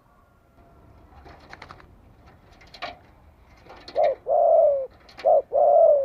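Spotted dove cooing twice in its usual phrase, each a short note followed by a longer, slightly falling note. Faint short high chirps or clicks come before it.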